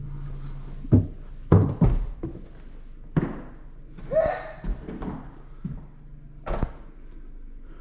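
A door being handled and shut: a run of sharp thuds and knocks, with a short squeak about four seconds in.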